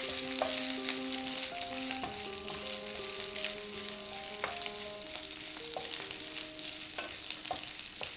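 Mashed boiled potatoes sizzling in hot oil in a non-stick frying pan, stirred with a wooden spatula that scrapes and taps the pan now and then. Soft background music plays underneath.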